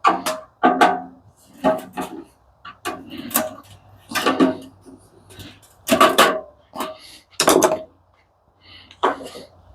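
Irregular knocks and clanks of metal parts being handled and worked loose during the teardown of an industrial coffee machine's base, about a dozen impacts with short ringing after some, with a brief lull just before the end.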